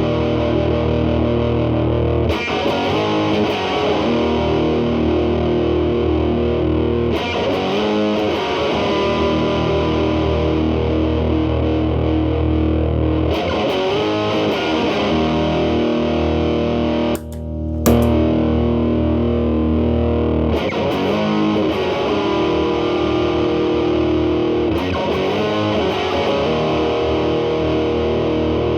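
Telecaster electric guitar played through an MI Audio Crunch Box distortion pedal into a Marshall Valvestate amp's clean channel. The pedal's gain is set high, and the guitar's volume is rolled back to clean up the distortion. Ringing, sustained chords are struck every few seconds, with a brief break about 17 seconds in.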